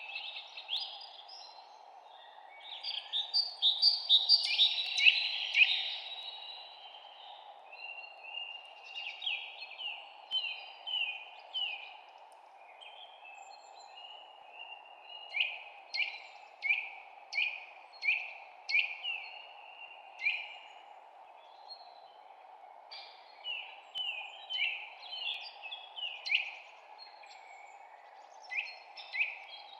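Songbirds chirping: runs of short, sharp, downward-slurred chirps repeated many times, busiest a few seconds in, over a steady low background hiss.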